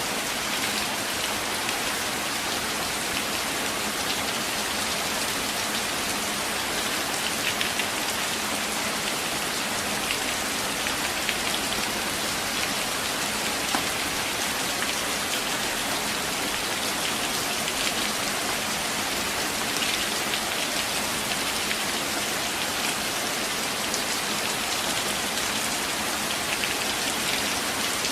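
Steady gentle rain falling in a forest, a constant even patter with scattered drops ticking.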